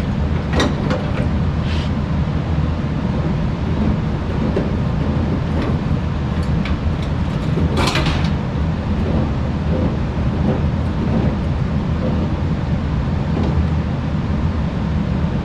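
Steady low rumble, with a few sharp metallic clinks of tools on a furnace gas valve and its piping as the pipe is twisted out; the loudest clink comes about 8 seconds in.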